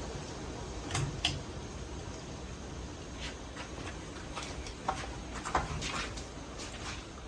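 Hampton Bay Cameron II Plus ceiling fan with a 188 mm spinner motor running with a steady low hum, with scattered light clicks and taps over it.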